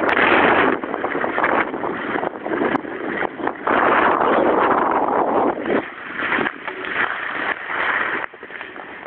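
Skis sliding and scraping over snow with wind on the microphone during a downhill run. The rushing noise swells and fades unevenly, then drops away a little after eight seconds as the skier slows.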